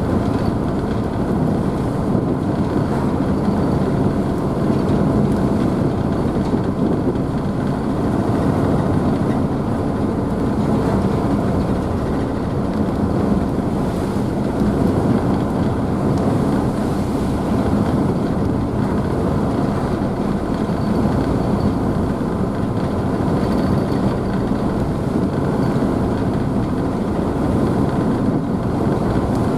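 Car ferry's engines running steadily under the churning and spray of the wake, heard from the stern deck; an even, unbroken rumble and wash with faint steady engine tones.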